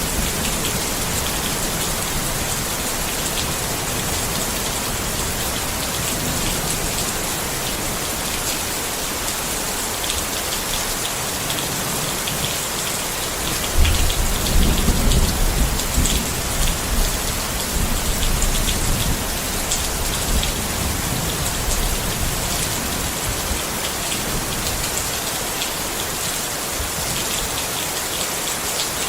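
Steady rain falling on a tent. About halfway through, a low rumble of thunder comes in and dies away over several seconds.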